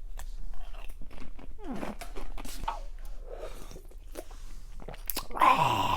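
Crunching and chewing on snack food such as chips, with scattered clicks and rustles. Near the end comes a louder sound that falls in pitch.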